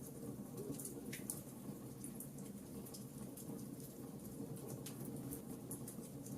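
Wood fire crackling in a fireplace: many small, sharp pops and snaps at irregular intervals over a steady low rumble of burning.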